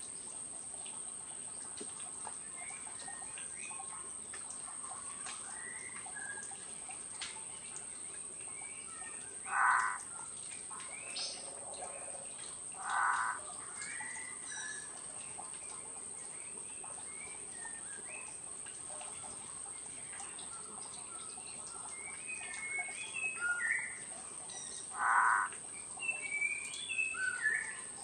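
Forest birds calling: scattered short chirps and twitters, with three louder notes of about half a second each, two close together and one later, over a steady high-pitched whine.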